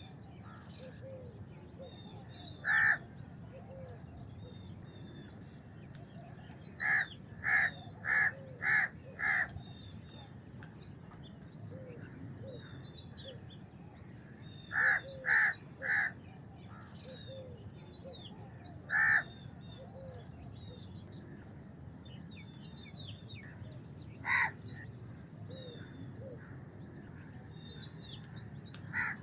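House crow cawing in short series: a single caw, then a run of five, a run of three and two more single caws, with a pair at the very end. Smaller birds chirp and twitter continuously in the background over steady low noise.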